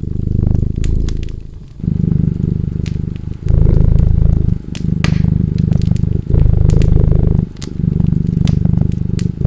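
A cat purring loudly and close, in low rumbling stretches of a second or two, one per breath in and out. Over it, a wood fire crackles with scattered sharp pops.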